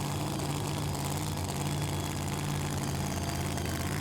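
A super modified two-wheel-drive pulling truck's engine idling steadily.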